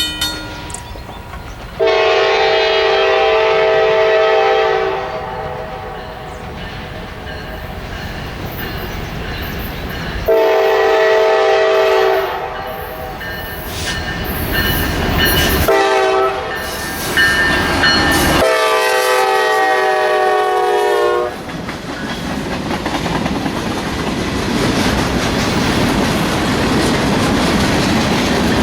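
Freight locomotive's multi-chime air horn sounding the grade-crossing signal: two long blasts, a short one, then a long one. After it comes the steady rumble and clatter of the train's wheels on the rails, growing louder near the end.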